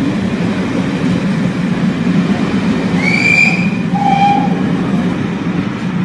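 Railway coaches of a passing train rolling by close up: a steady loud rumble of wheels on rail, with a brief high squeal about three seconds in and a shorter, lower one about a second later.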